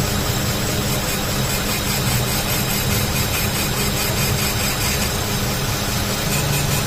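Steady hum of the Mitsubishi Lancer's 1.5-litre engine running with the front wheel hub turning, spinning a bent front brake rotor.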